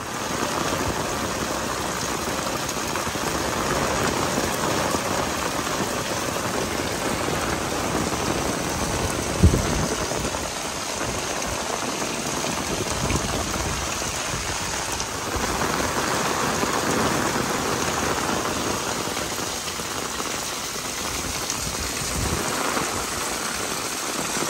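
Heavy stormy rain falling steadily on flooded ground and mud walls. A single low thump comes about nine seconds in.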